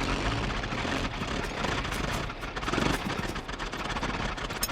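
A vehicle engine running steadily, a constant low rumble with a hiss over it.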